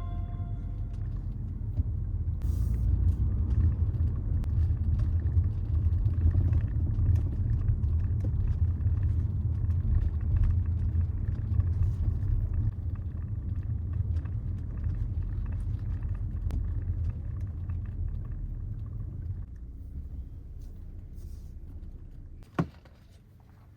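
Kia Seltos small SUV driving, a steady low road and engine rumble that dies away over the last few seconds, with one sharp click near the end.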